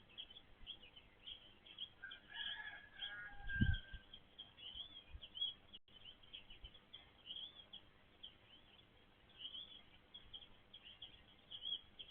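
Small birds chirping continuously with short, rapid high-pitched chirps, with a lower, longer call from another bird a couple of seconds in. A single low thump about four seconds in.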